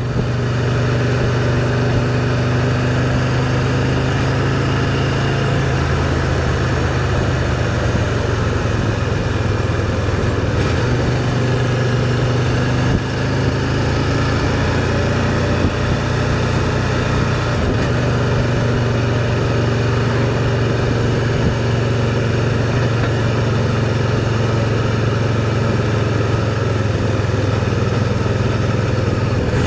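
Motorcycle engine running steadily at an even cruising pace, with constant wind and road noise.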